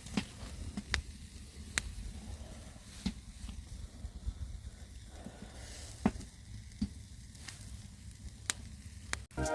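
Chicken sizzling on a grill over a wood campfire: a low steady hiss with scattered sharp pops and crackles.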